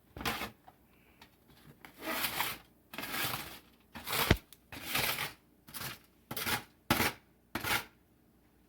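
Dry roasted hominy corn nuts crunching and rasping in about ten short, irregular bursts, with one sharp click about four seconds in.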